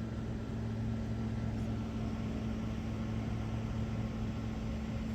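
Steady electrical hum with a low drone from a Class 450 electric multiple unit standing at the platform, unchanged throughout.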